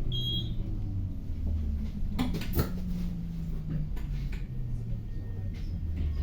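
City bus cabin in motion: a low drivetrain hum and road rumble, the hum stepping in pitch a few times as the bus changes speed. A couple of sharp rattling knocks come about two seconds in, and a brief high beep sounds at the very start.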